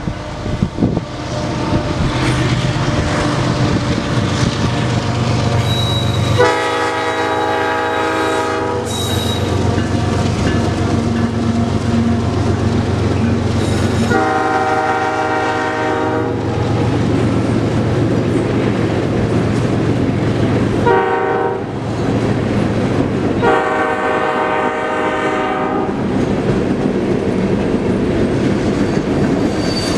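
A CP freight train led by a GE diesel locomotive sounding its air horn in two long blasts, one short and one long, the standard grade-crossing signal, over the steady running of the diesel and the train on the rails.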